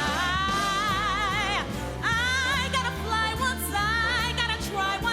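Female vocalist singing with a live band: a long held note with wide vibrato, then a new phrase about two seconds in.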